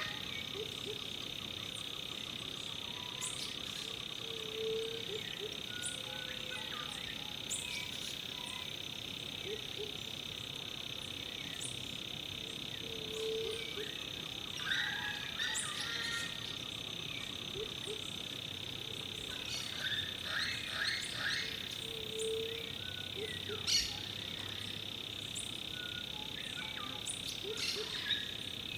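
Rainforest ambience: a steady high-pitched chorus of insects and frogs, with a short low call repeating three times and scattered brief bird chirps over it.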